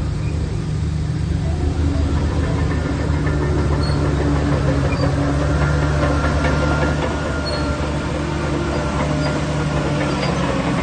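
Shantui DH17 bulldozer's diesel engine running steadily under working load, easing slightly about seven seconds in.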